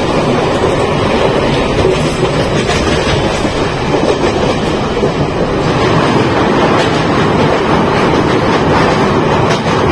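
MEMU electric passenger train running at about 70 km/h: a steady, loud noise of wheels on the track, with faint irregular knocks.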